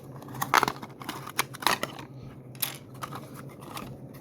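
Irregular clicks and short crinkles of small plastic parts and packaging being handled, over a steady low hum.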